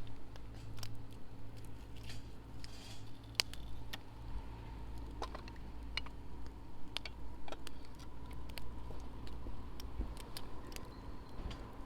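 Wood burning in a fire pit, crackling with scattered, irregular sharp pops.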